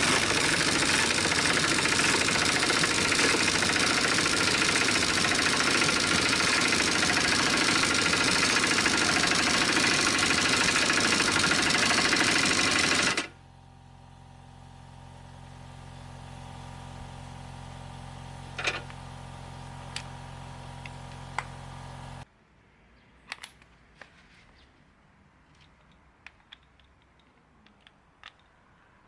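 Loud steady machine noise that cuts off suddenly about 13 seconds in, leaving a quieter steady hum with a few clicks; the hum stops abruptly about 22 seconds in.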